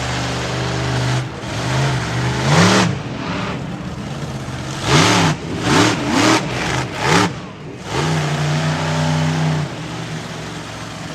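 Monster truck engine running and being revved hard. There is one rev about two and a half seconds in, then four quick throttle blips in a row between about five and seven seconds, before it settles back to a steady run.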